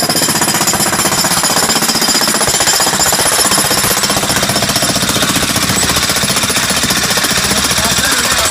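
Jackhammer running continuously, a rapid, even hammering as it breaks out basement concrete for a French drain trench.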